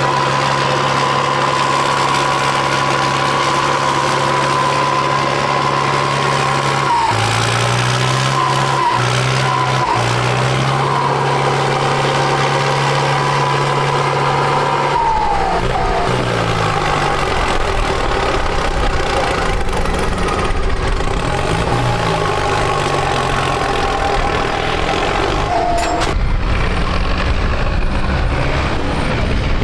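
Tractor diesel engines working in a mud pit, running at a steady high speed, with the pitch shifting about seven seconds in and dropping around fifteen seconds in, after which the engine sound turns rougher.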